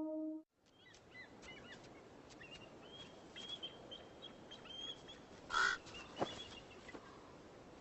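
A common raven gives one loud, harsh call about five and a half seconds in. Faint high chirping calls and light clicks sound under it. A brass music cue cuts off in the first half second.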